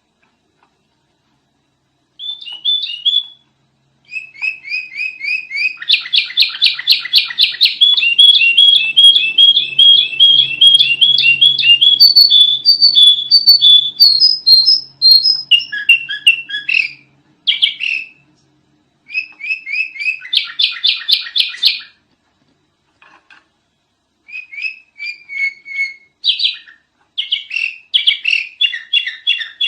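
Sooty-headed bulbul (kutilang) singing in loud bouts of rapid, chattering repeated notes, with short breaks between the bouts.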